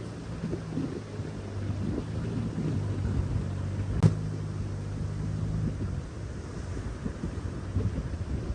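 Wind buffeting the microphone as a low rumble, under a steady low hum that stops about six seconds in. A single sharp click sounds about four seconds in.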